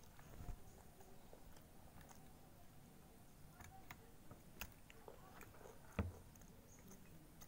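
Faint mouth sounds of a small child chewing bakso meatballs and noodles, with scattered small clicks and one sharper knock about six seconds in.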